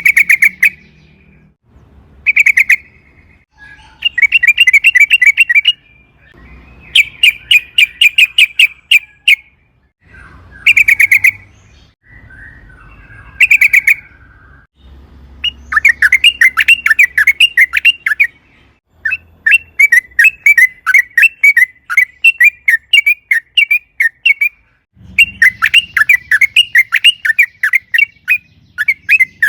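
Yellow-vented bulbul (trucukan) singing loudly. It gives short bursts of quick bubbling notes, then from about halfway through longer unbroken runs of rapid repeated notes, the long 'ropel' run.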